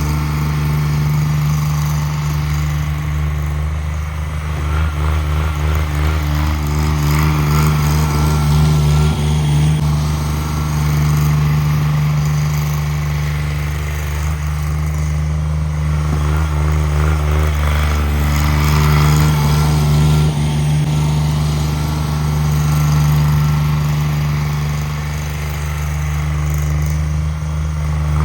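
Cub Cadet 1782 garden tractor engine running steadily at a constant speed. Its sound swells and eases a few times, around a third of the way in and again later on.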